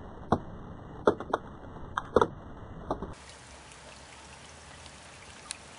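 Rain falling, with heavy drops landing close to the microphone in sharp taps, about six in the first three seconds. About three seconds in, it cuts to a quieter, hissier rain with one more tap near the end.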